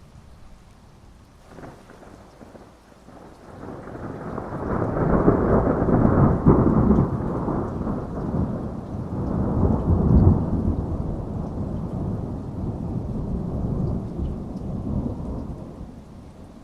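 Heavy rain with a long roll of thunder. A faint crack comes about a second and a half in, then a deep rumble swells from about three seconds in, peaks in the middle and dies away near the end.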